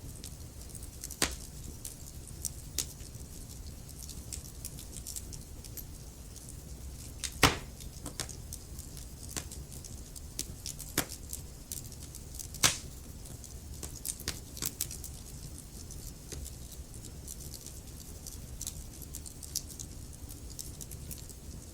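Log fire in a fireplace crackling, with irregular snaps and pops over a low steady rumble. Two louder pops stand out, about seven and thirteen seconds in.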